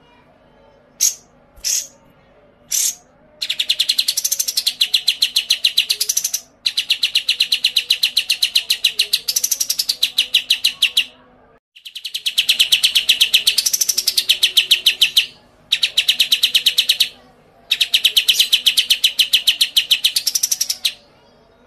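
A white-rumped shama (murai batu) sings a few short chips, then a series of long, fast trills. Each trill is an even run of rapidly repeated notes lasting several seconds, with brief pauses between trills.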